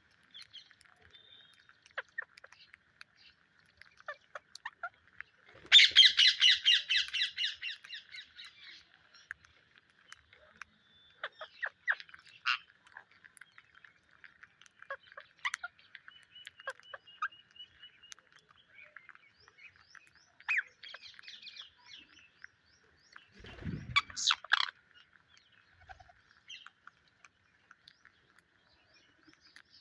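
Psittacula parakeets calling: a loud burst of rapid, screechy squawks about six seconds in, then scattered chirps and short squawks over faint steady chatter, and another loud burst of calls near the end.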